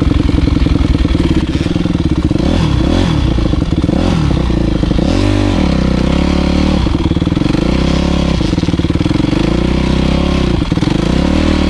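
Motocross bike engine being ridden, the revs rising and falling again and again as the throttle is worked, with brief drops around five seconds in and again near the end.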